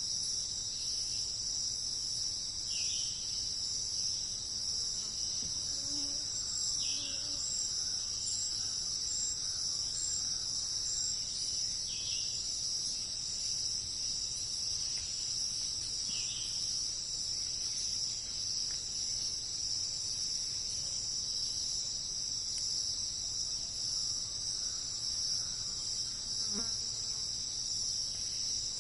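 A steady, continuous high-pitched chorus of insects. A few faint short downward chirps come through about every four seconds in the first half.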